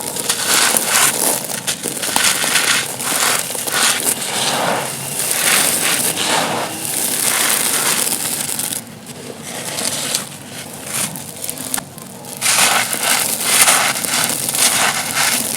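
Dry, dusty, stony chunks crunching and crumbling in a dense run of crisp crackles, quieter for a few seconds in the middle before picking up again.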